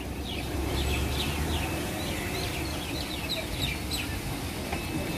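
Small birds chirping in a quick, busy series of short, falling chirps over a low, steady rumble.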